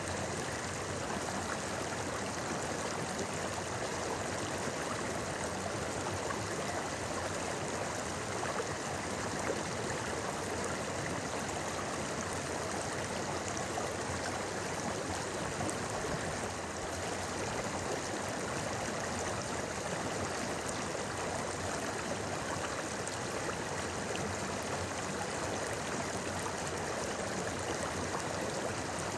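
A shallow river running and babbling steadily over rocks.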